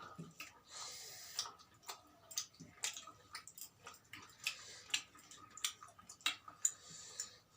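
Eating sounds: irregular small clicks and smacks of chewing and eating a rice and chicken curry meal, with a couple of soft rustling hisses, one about a second in and one near the end.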